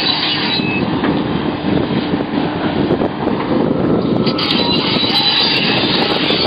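Sumitomo SH700LHD-5 heavy excavator working, its diesel engine and hydraulics running steadily and loudly under load. A thin high squeal comes in near the end.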